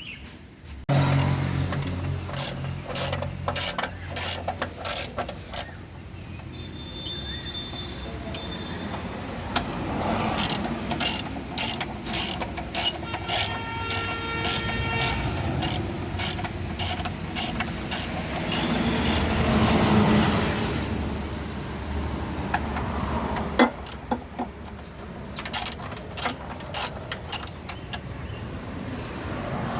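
Ratchet wrench clicking in quick runs as nuts are undone on the car's front suspension, with metal clatter from tools and parts in between.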